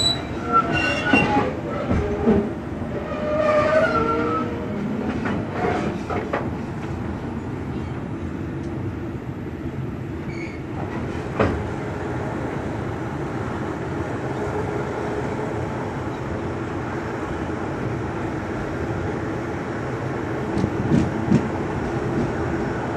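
A diesel-hauled passenger train running alongside a station platform, heard from the open doorway of a carriage. It makes a steady rumble, with a sharp clack of the wheels over a rail joint about eleven seconds in and a few more clacks near the end.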